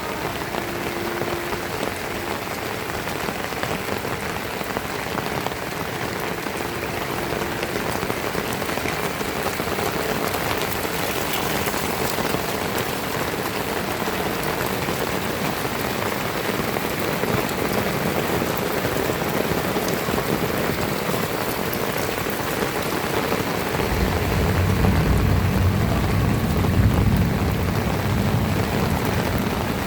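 Heavy rain falling steadily in a dense, even hiss. Near the end a low rumble joins in underneath.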